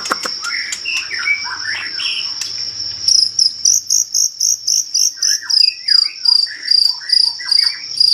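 White-rumped shama (murai batu) singing short gliding whistled phrases over a steady, high cricket-like trill. About three seconds in, the trill turns into an even pulsing of about three pulses a second.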